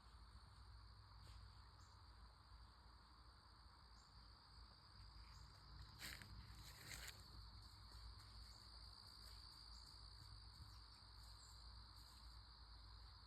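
Faint, steady high-pitched chorus of insects such as crickets, with two short crackles about six and seven seconds in.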